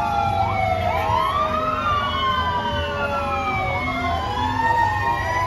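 Fire truck sirens wailing, several siren tones rising and falling in pitch and crossing each other, over a low, steady truck engine rumble.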